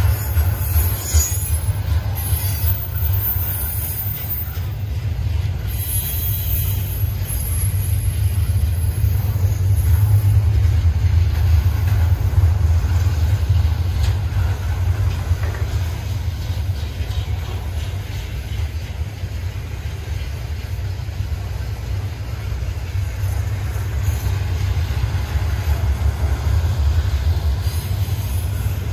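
Freight train cars rolling past: a steady low rumble, with brief high hissing about two and six seconds in.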